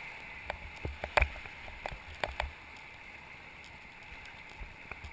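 Steady rush of river water, with a cluster of sharp knocks and taps in the first two and a half seconds, the loudest a little over a second in.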